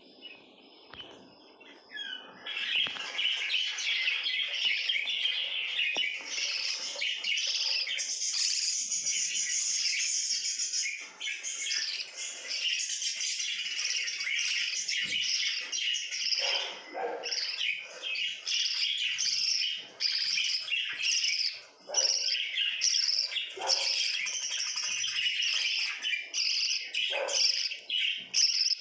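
Pet lovebirds chattering and chirping together, a dense, continuous high-pitched twittering that starts about two seconds in.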